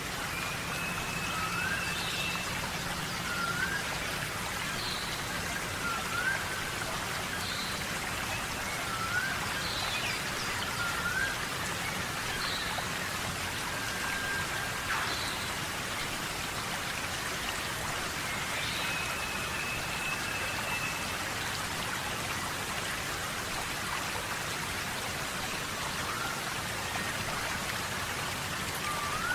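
Steady tropical rainforest rain. Over it come short rising calls, repeating every second or two, and a couple of longer whistled notes.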